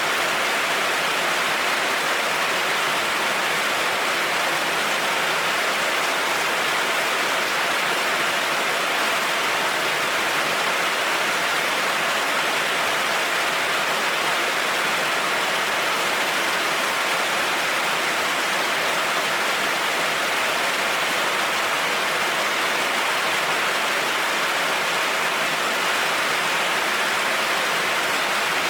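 Heavy rain falling steadily on a road: an even, unbroken hiss with no thunder.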